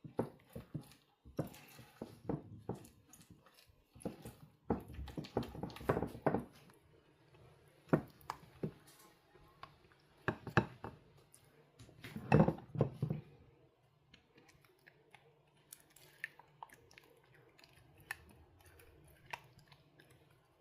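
Kitchen handling sounds: a run of irregular knocks and clinks of dishes and utensils, with a busier rustling stretch about five seconds in and the loudest knock about twelve seconds in. Afterwards a low steady hum with occasional light ticks.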